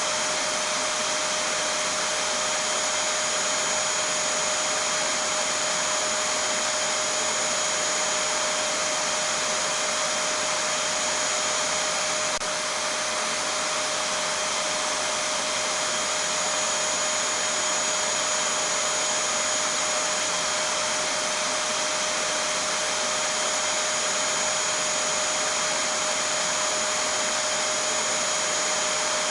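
Vacuum cleaner running steadily: an even rushing noise with a constant hum and a high whine that never changes.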